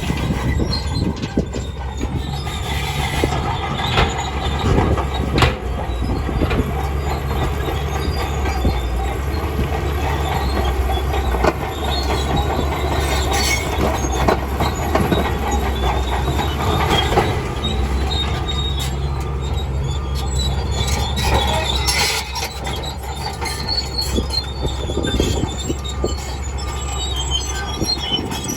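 Shantui DH17C2 crawler bulldozer working: a steady diesel engine drone under the squeal and clank of its steel tracks.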